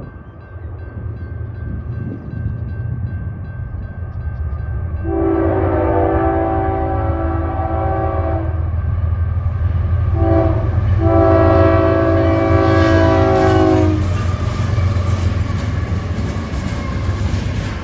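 A passing train's locomotive horn sounding a chord over a steady low rumble. It gives a long blast about five seconds in, a short blast, then another long blast, the pattern of a grade-crossing signal.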